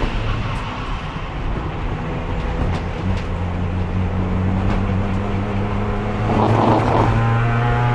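Race car engine under load in fourth gear, its pitch rising slowly as the car accelerates. A brief rush of noise comes about six and a half seconds in.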